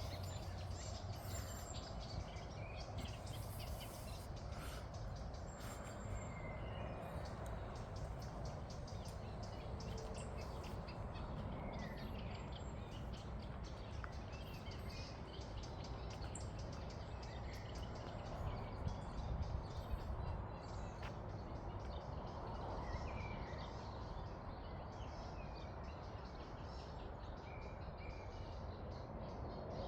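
Outdoor ambience: scattered short bird calls and chirps over a steady low rumble and hiss, with a few louder calls about two-thirds of the way through.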